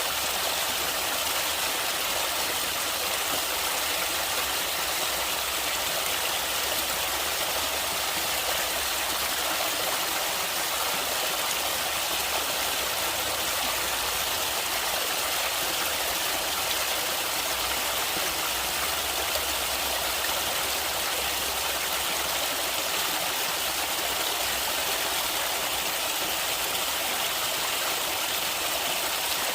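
Steady rushing of flowing stream water, an even, unbroken hiss with no distinct splashes.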